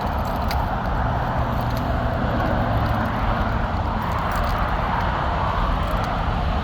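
Steady rumble of motor-vehicle engines running, with a few faint ticks.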